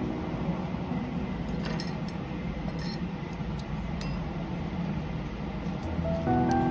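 A few light clinks of kitchen utensils over a low steady hum; background music comes back near the end.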